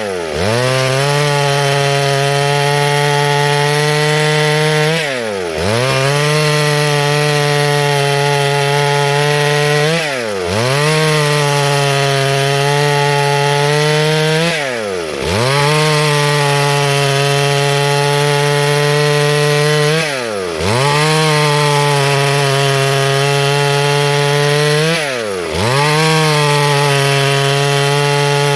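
Two-stroke chainsaw running at high revs while cutting wood. About every five seconds its engine note briefly drops and then climbs back up.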